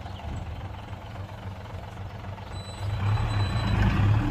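Heavy diesel engine of earthmoving machinery running steadily, growing louder about three seconds in, with a faint thin high tone over it in the second half.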